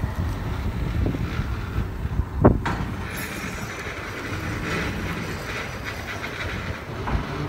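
Loaded old CSX rock hopper cars rolling past, wheels rumbling and clacking over the rail joints, with one loud knock about two and a half seconds in.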